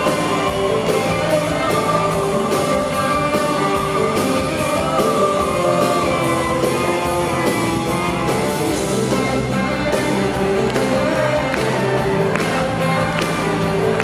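Live band playing a pop-rock song with a steady drum beat and a woman singing.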